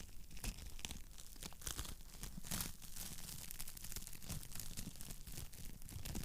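Wood fire crackling in a fireplace, a dense, irregular run of small pops and snaps.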